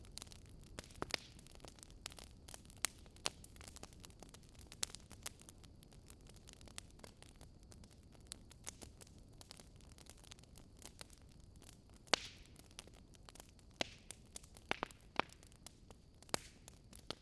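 Campfire wood burning, with irregular sharp crackles and pops over a faint steady hiss; a few louder pops come in the last few seconds.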